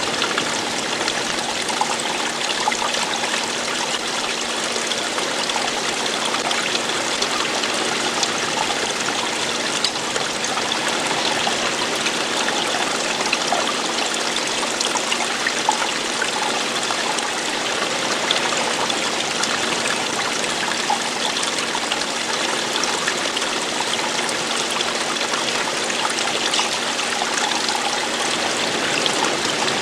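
Running water, a small stream or cascade flowing and splashing steadily, with a faint low hum beneath it.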